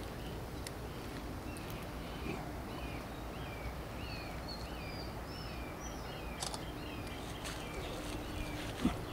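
Songbirds chirping: a long series of short, downward-slurred chirps, one or two a second, some higher than others. A couple of faint clicks come near the end.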